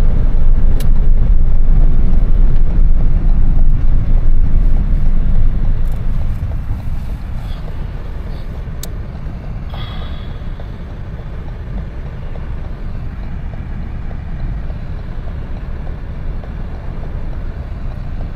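Semi truck's engine and road noise heard from inside the cab while driving: a low, steady rumble that drops clearly in level about six seconds in, with a few faint clicks.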